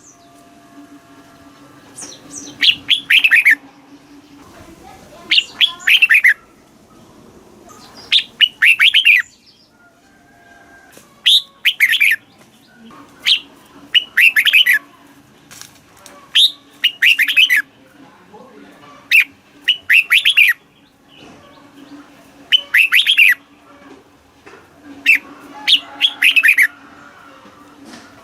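Red-whiskered bulbul singing short, loud phrases of several quick descending notes, one phrase about every three seconds, over a steady low hum.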